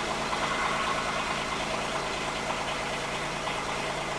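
Kubota U10-3 mini excavator's three-cylinder diesel engine idling steadily.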